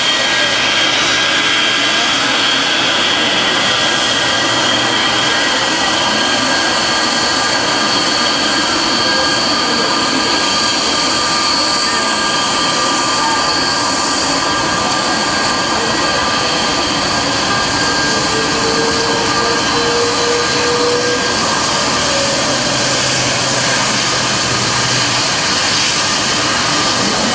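Jet airliner engines running steadily: a loud, even rush with high, steady whining tones over it.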